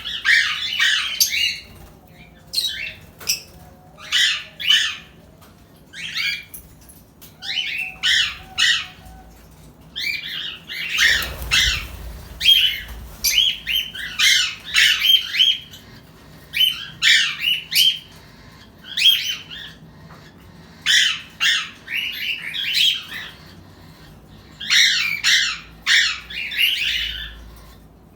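Small pet parrots squawking: harsh, rasping calls in short clusters every second or two, several birds calling over one another.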